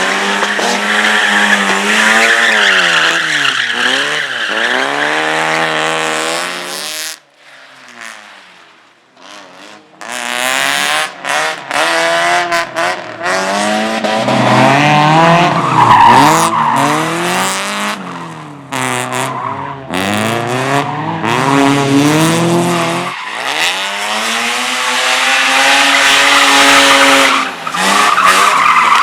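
Slalom race car's engine revving hard, its pitch climbing and dropping again and again as the driver works the throttle and gears through the course. It drops away to a short lull about seven seconds in, then revs up again.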